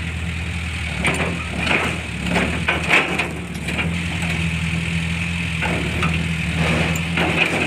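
Heavy diesel engine of an earthmoving machine running steadily, with scattered clanks and knocks, a cluster of them in the first few seconds and more near the end.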